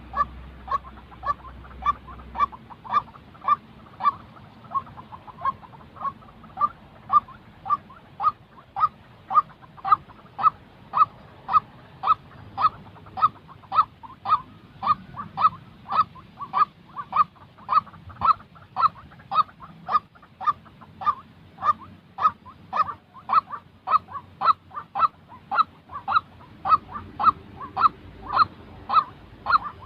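White-breasted waterhen calling: one short note repeated evenly, about twice a second.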